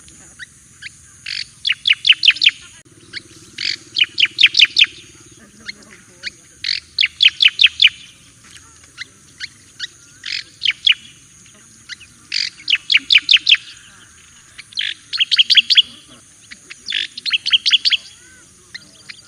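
Striated grassbird (cica koreng jawa) singing: short bursts of five or six quick, sharp notes, repeated about every two seconds, with a steady faint hiss underneath.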